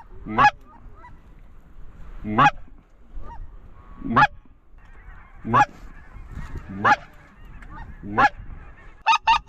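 Goose call blown by a hunter: single sharp honks about every second and a half, then near the end a fast run of about eight clucks. The calling sounds terrible to the caller.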